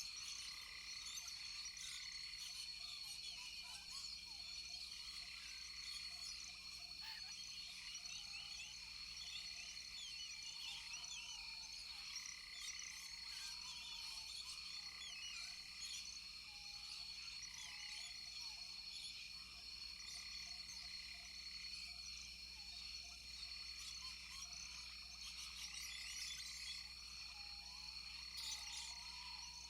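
A chorus of frogs calling, with many overlapping short chirps over a steady high-pitched drone, and a lower call repeating every few seconds.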